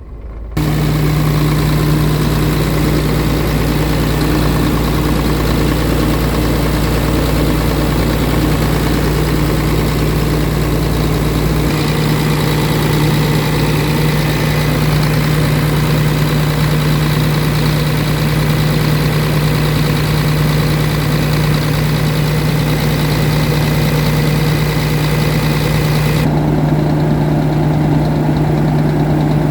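Diesel engine of a 2005 Scania P-series truck idling steadily with a deep, even hum. It cuts in abruptly about half a second in and shifts slightly in tone twice later on.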